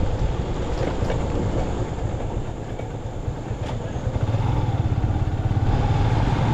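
Motorcycle engine running while riding, easing off about two seconds in and pulling harder again around four seconds.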